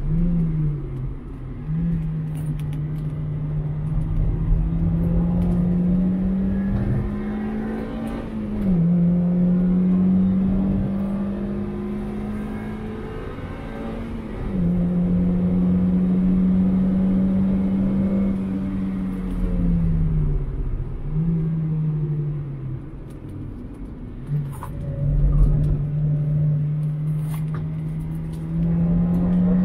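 2001 Mazda MX-5's 1.8-litre four-cylinder engine on track, its note climbing steadily under acceleration and then dropping or jumping several times with gear changes and braking, over a steady rush of tyre and wind noise.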